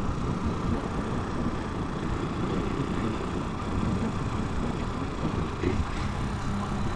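Italika 250 motorcycle engine running steadily under way, with road and wind noise on the microphone.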